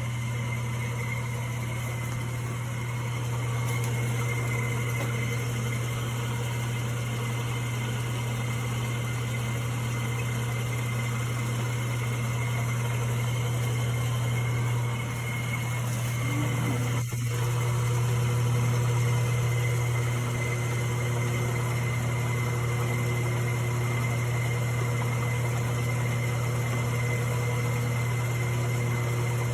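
Homemade vertical compressor-cutting lathe running on trial, driven by its 1 hp electric motor: a steady hum with a few steady higher tones. There is a brief dip and a short knock about halfway through.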